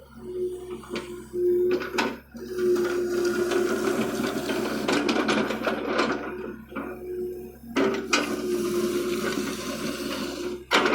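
Excavator working: a whining tone that starts and stops again and again with its movements, over clattering and scraping, with several sharp clanks.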